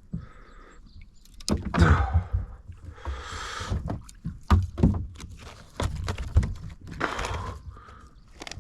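Knocks and thumps against a kayak, with short bursts of water splashing and sloshing, as a striped bass is landed and handled aboard.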